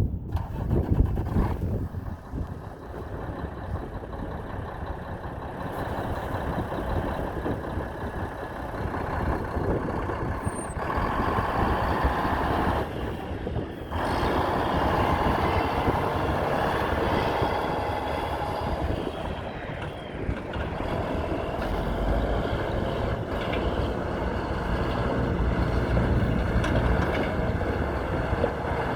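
2001 Mack CH613 semi truck running, its diesel engine note shifting at a few points.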